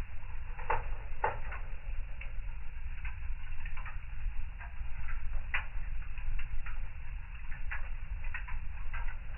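Wood fire in a fireplace crackling, with irregular snaps and pops over a low steady rumble. A few louder pops come about a second in and again about halfway through.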